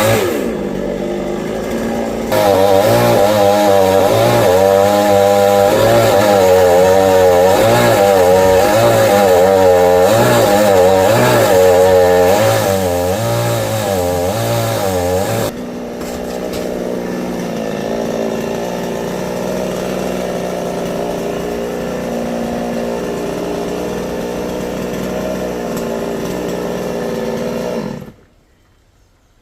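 Chainsaw cutting teak wood, the engine pitch wavering up and down as it works through the cut. About halfway through the sound changes suddenly to a steadier, slightly quieter run, and it cuts off abruptly near the end.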